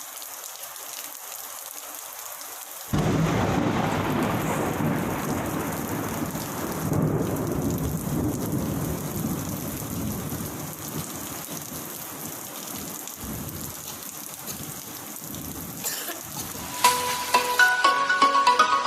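Steady rain hiss, then a sudden loud thunderclap about three seconds in that rumbles on and slowly dies away. Music starts near the end.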